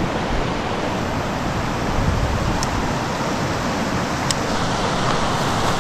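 Steady rush of flowing river water, with two faint ticks near the middle.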